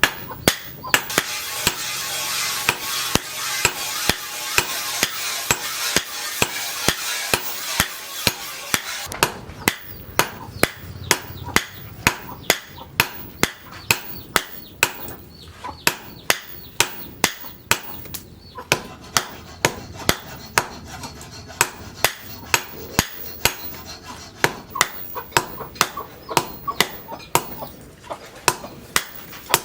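Hand hammer striking steel on an anvil in a steady rhythm, about two to three blows a second, with a ringing tail on each strike: forging the sprocket steel into a machete blade. A steady hiss runs under the blows for the first nine seconds or so, then stops.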